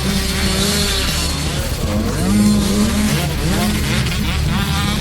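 Rally car engine revving up and down as it is driven hard, with steady background music underneath.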